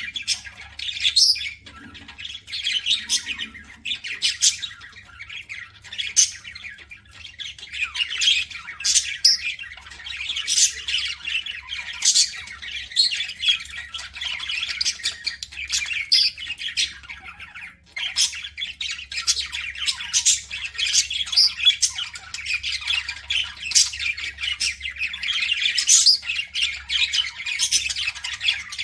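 Budgerigars chattering and squawking without pause, many short calls overlapping.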